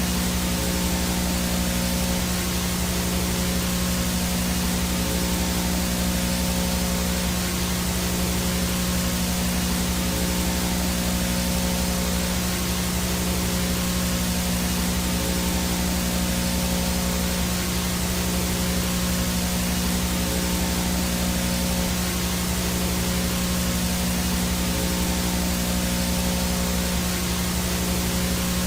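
VHS static from a no-signal analog video feed: a steady, unchanging hiss over a strong low buzzing hum, with a thin high whine on top.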